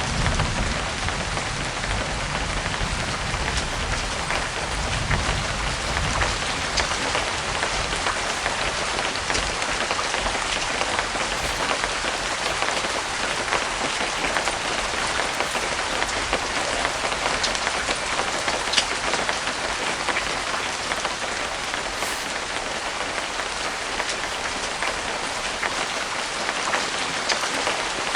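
Steady light rain falling, an even hiss with scattered individual drops ticking. A low rumble underneath fades out over the first few seconds.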